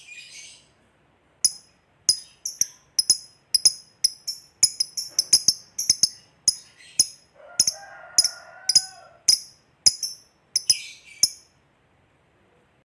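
Lovebird giving a long run of short, sharp, high chirps, about two to three a second. A lower held note sounds under them for about two seconds midway, and the chirping stops near the end.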